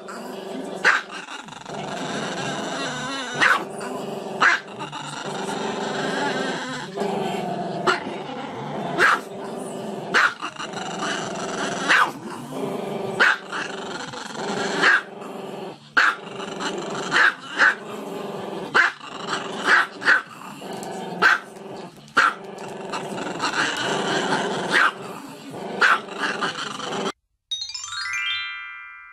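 A small black-and-tan dog howling with its head tipped back, in drawn-out notes broken by many short sharp yips, with music playing along. About two seconds before the end it cuts off and a short electronic transition chime of stepped tones plays.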